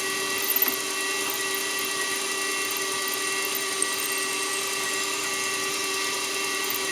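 A milling machine running an end mill through a block of aluminum: a steady whine held at several constant pitches.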